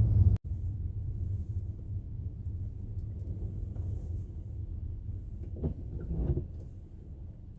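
Kia Seltos cabin rumble while driving: low road and engine drone that drops out for an instant about half a second in. A brief louder patch comes about six seconds in, and then the drone eases off toward the end.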